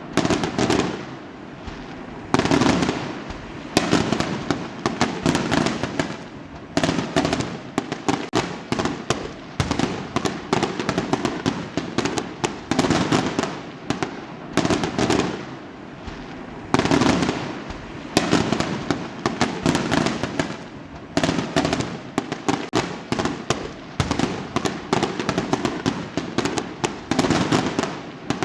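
Fireworks going off one after another: a fresh burst about every second or two, each trailing off into a rapid crackle.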